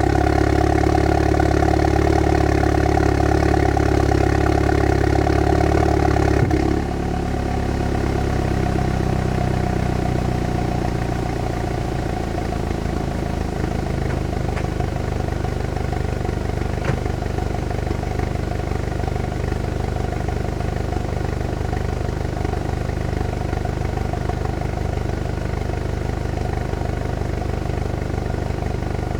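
Volkswagen MK7 GTI's turbocharged four-cylinder idling after a cold start, heard through an Integrated Engineering downpipe and Clubsport S muffler. About six and a half seconds in, the elevated cold-start idle drops to a lower, quieter note, and it settles a little further near twelve seconds, then holds steady.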